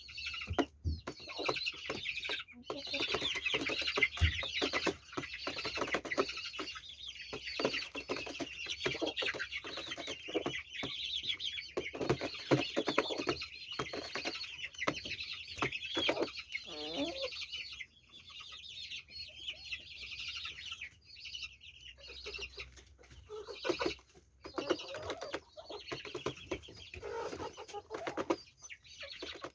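Chickens clucking and calling, with dense high chirping over the first half that thins out after about 18 seconds, and lower clucks near the end.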